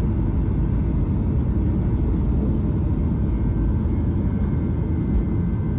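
Boeing 737-800's CFM56-7B jet engines at takeoff thrust heard from inside the cabin, a steady loud rumble with a faint whine, as the aircraft rolls down the runway and lifts off. It fades out near the end.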